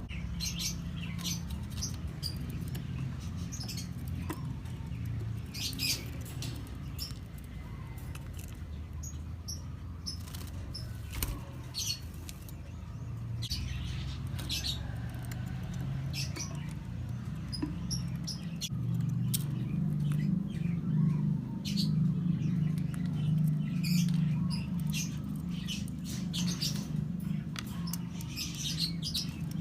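Lovebirds giving short, sharp chirps, scattered irregularly, over a steady low hum that grows louder past the middle.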